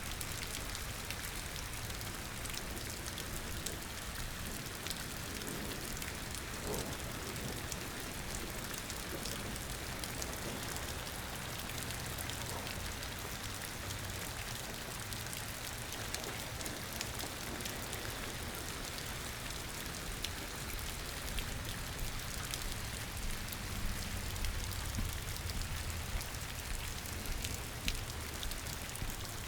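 Steady rain falling, a constant hiss with many sharp drop taps close by that grow more frequent near the end.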